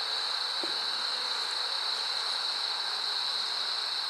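Steady high-pitched whine over a constant hiss, with a faint click about half a second in.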